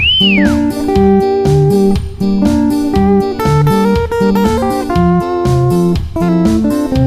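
Instrumental guitar music: a plucked guitar melody over a bass line that steps from note to note. A short whistle glides up and back down at the very start.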